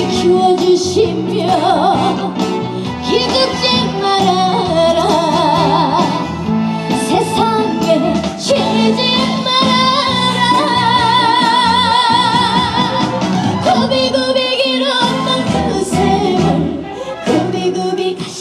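A woman singing a Korean trot song over its band accompaniment, her held notes wavering with heavy vibrato.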